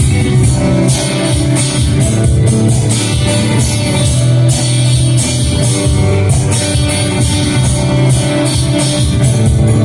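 Live band playing an instrumental passage of a rock song: guitar over a steady drum kit beat.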